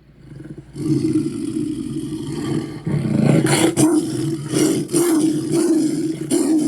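Monster roar sound effect built to sound like a bison, bear and big-cat blend. After a brief pause a long, low roar starts about a second in, then grows louder and rougher about three seconds in with several harsh peaks.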